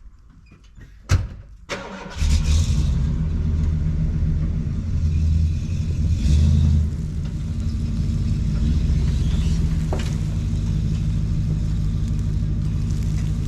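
A sharp knock about a second in, then a vehicle engine starts about two seconds in and runs steadily, swelling twice with brief revs.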